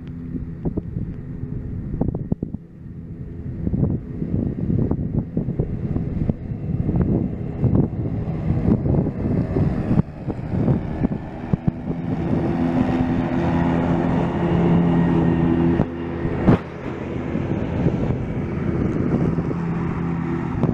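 Kubota D1305 three-cylinder diesel of a Grasshopper 900D zero-turn mower running under load while it cuts tall, wet grass, with wind buffeting the microphone. The engine hum grows louder and steadier about halfway through, and there is one sharp click near the end.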